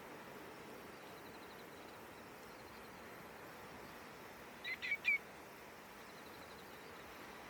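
Common greenshank giving its ringing three-note call, three short clear notes in quick succession about halfway through, the last the loudest.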